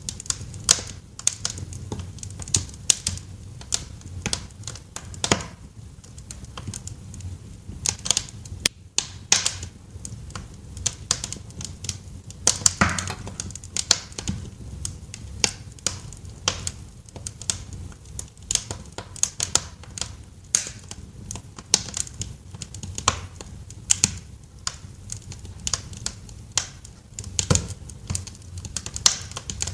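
Wood fire crackling in a fireplace: irregular sharp pops and snaps, several a second with a few louder ones, over a low steady rumble.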